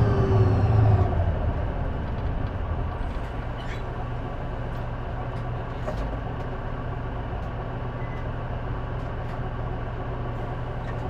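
J-Bus city bus diesel engine heard from inside the cabin: pulling under power at first, then easing off about a second in and settling into a steady low running hum.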